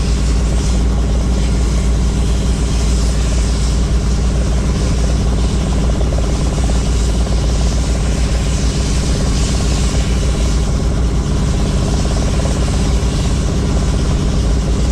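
Helicopter in steady flight, heard from on board: a constant low drone from the rotor and engine, with a shifting wind rush over it.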